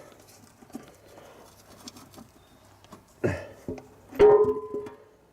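Small metallic scrapes and knocks, then two sharp clanks about three and four seconds in, the second ringing on for about a second: a spanner and tube being worked against metal at the oil pan drain plug under the van.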